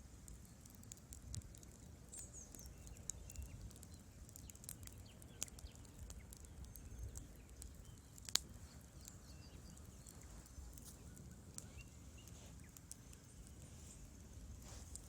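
Wood fire crackling faintly in a fireplace: irregular small pops and snaps, with one sharp pop about eight seconds in, over a low rumble.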